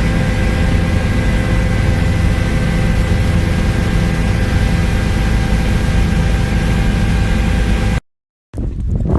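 Steady engine drone with several fixed tones over a loud rush of noise. It cuts off suddenly about eight seconds in.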